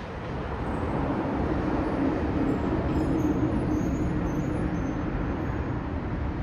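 Road vehicle engine and tyre noise, swelling over about a second and then holding steady with a low hum.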